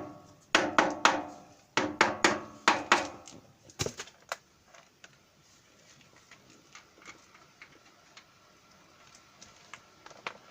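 Hammer blows on metal, a quick run of ringing strikes in two groups over the first three seconds, then two lighter knocks about four seconds in, after which only faint ticks remain.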